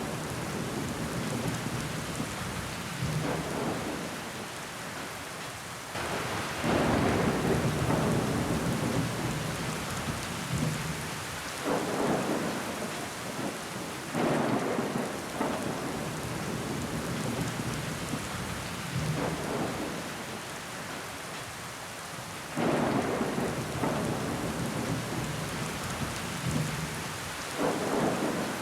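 Heavy rain falling against a window glass, a steady rushing hiss. Sudden louder swells come about every six to eight seconds and fade off.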